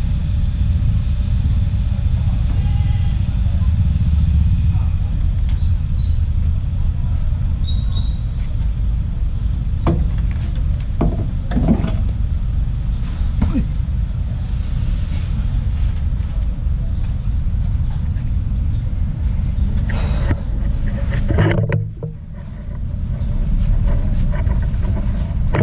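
Steady low rumble of a truck's engine running, with scattered knocks and clicks of work on the truck and a short run of high squeaks about four seconds in.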